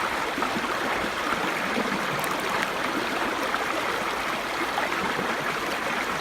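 Small brook babbling steadily, an even rush of water with fine bubbling and gurgling.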